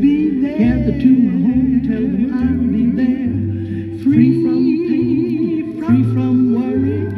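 Gospel song: a singer's wordless vocal line, wavering with vibrato, over held low accompanying notes that change about once a second.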